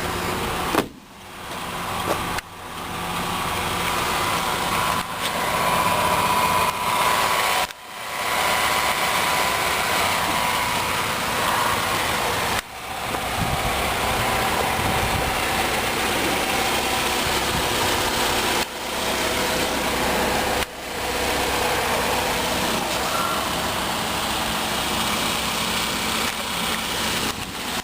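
2008 Chevrolet Cobalt's 2.2-litre four-cylinder engine idling steadily. The sound drops out briefly several times.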